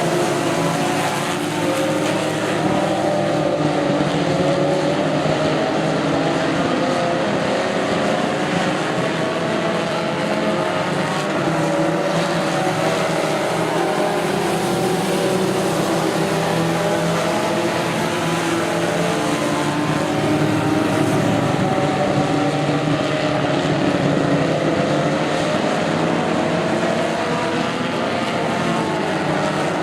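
Tough truck engines racing, several at once, their pitches wavering up and down as they rev and ease off over one another.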